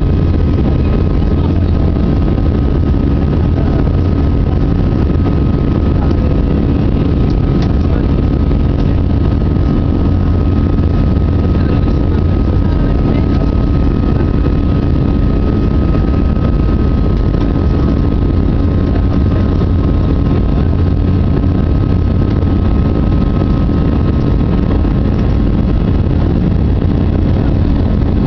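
Airbus A320-200 cabin noise with the jet engines running at high thrust: a loud, steady rumble and rush of air, with a faint steady hum running through it.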